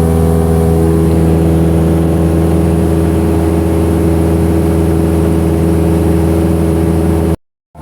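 Light single-engine aircraft's piston engine and propeller running steadily, a loud, even drone as heard from the cockpit.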